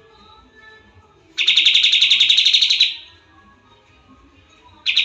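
Pied triller (kapas tembak) singing: a rapid, evenly pulsed trill lasting about a second and a half, rising slightly at the end, then a second trill starting near the end.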